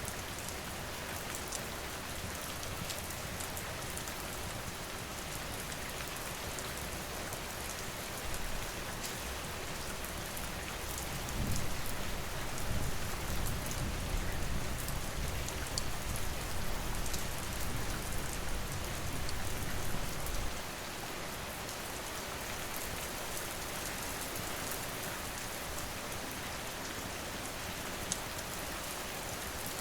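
Steady rain with scattered sharp crackles from a wood fire. A low rumble comes in about a third of the way through, lasts roughly nine seconds, then cuts off.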